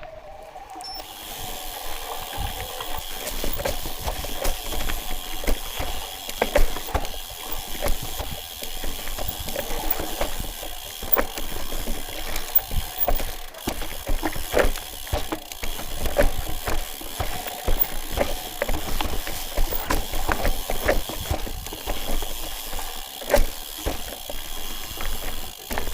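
Irregular clicks and knocks of someone walking on a rocky trail, over a steady hiss that comes in about a second in.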